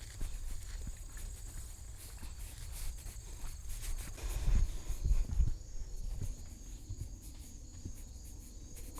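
Footsteps and handling bumps on a walk outdoors, a cluster of heavier low thuds about halfway through, with light scattered clicks and a faint steady high whine underneath.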